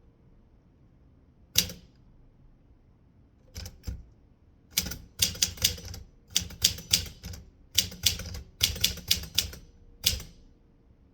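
Typewriter keys striking the paper: one keystroke, a pause, two light strokes, then a quick irregular run of keystrokes as a line is typed, stopping about a second before the end.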